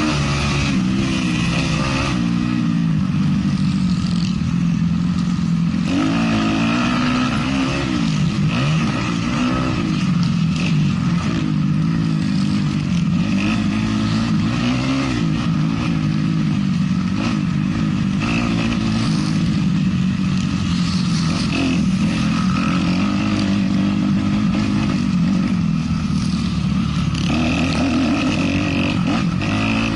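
450cc motocross bike engine racing, revving up and down continuously with throttle changes through corners and straights.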